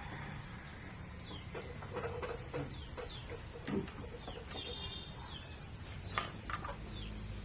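Chickens clucking and small birds chirping, with a few sharp clicks near the middle and end.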